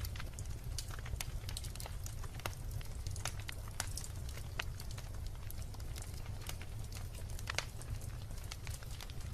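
Wood logs burning in a fireplace: irregular sharp crackles and pops over a steady low rumble of the flames. One pop, about seven and a half seconds in, is louder than the rest.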